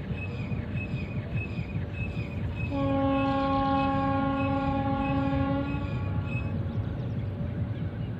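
A horn sounds one long, steady blast of about three seconds, starting a little under three seconds in, over a continuous low rumble. A high, short note repeats about three times a second behind it and stops after the horn ends.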